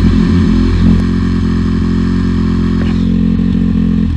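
Dirt bike engine running at a steady speed on the last of its fuel, its note starting to waver near the end.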